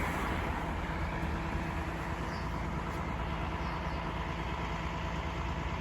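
Diesel engine of a Cat 352 excavator piling rig idling steadily, a low even engine hum with a faint steady higher whine over it.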